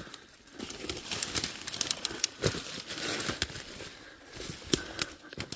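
Irregular crackling and rustling of wet brush and vines: twigs and leaves snapping and crunching as someone pushes through and steps over the undergrowth.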